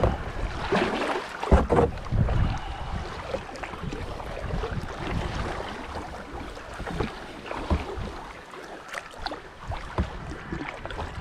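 Kayak paddle strokes splashing and water sloshing against the kayak, irregular, with the loudest splashes about two seconds in.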